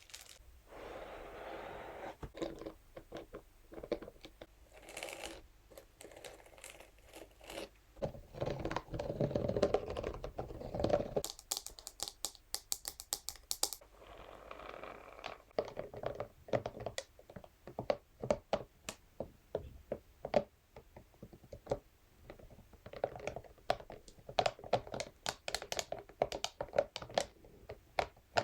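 Scalp massage brush scratched and rubbed across different materials, with crinkling, then tapped in quick runs of light clicks.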